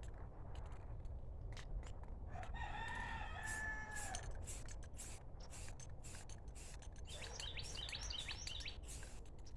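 A rooster crows once, about two and a half seconds in, a single call under two seconds long; small birds chirp near the end, over repeated short scratchy rubbing strokes.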